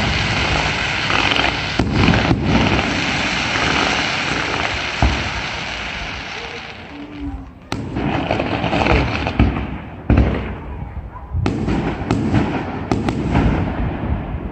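Fireworks display: a dense crackling barrage of many shells and firecrackers that fades over the first seven seconds or so, then a series of sharp bangs a second or two apart, each followed by crackling.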